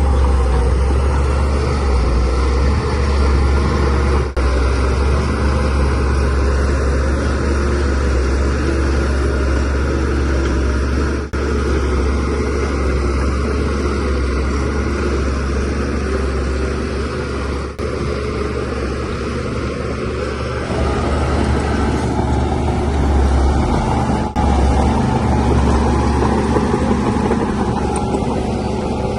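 Diesel engine of a DH17C3 crawler bulldozer running steadily with a deep, low drone, with brief dips in level a few times.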